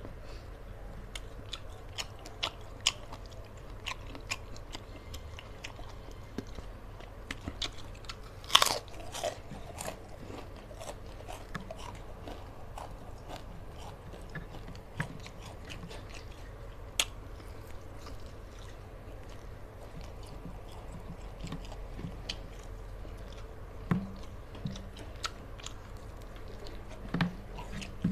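A man chewing a mouthful of rice and fried fish eaten by hand, with scattered sharp crunches and clicks, the loudest about a third of the way in, over a steady low hum.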